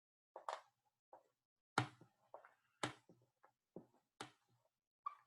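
Dry-erase marker writing on a whiteboard: a string of short, faint strokes and taps, irregularly spaced.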